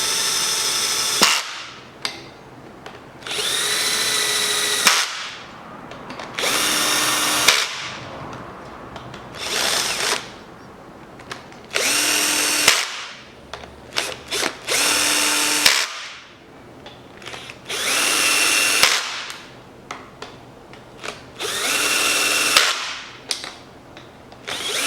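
Cordless drill-driver running in short whining bursts of about a second each, about eight times, spinning cylinder head bolts down into the block before final torquing.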